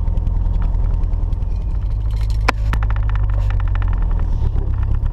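Turbocharged Nissan KA24DE-T 2.4-litre four-cylinder engine running steadily at a raised idle of about 1200 to 1500 RPM while it sucks Sea Foam through a thin vacuum hose. A couple of sharp clicks sound about two and a half seconds in.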